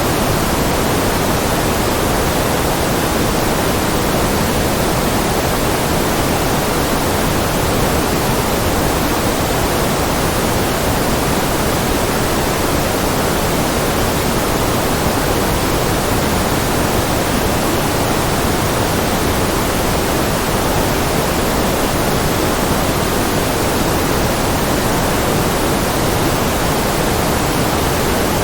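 Steady white-noise track: an even, unbroken hiss that never changes, fuller in the middle and lower range than in the highs.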